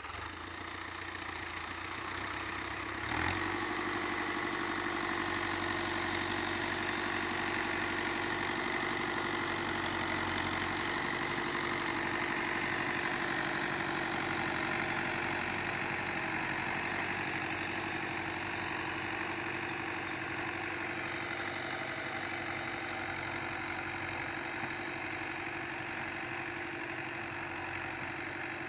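An engine running steadily at an even speed, with one sharp knock about three seconds in.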